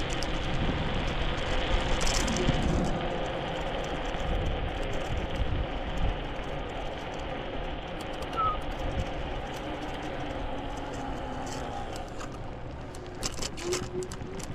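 Steady rumble and hiss of riding an electric scooter: road and wind noise, with a few sharp clicks or rattles near the end.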